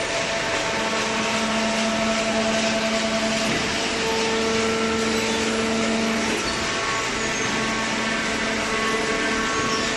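Horizontal hydraulic baler running: a steady machine noise with a humming motor and pump. One hum tone grows louder from about a second in until about six seconds in, then eases back.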